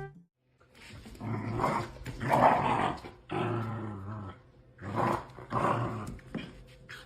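A dog growling in about four rough, drawn-out bouts.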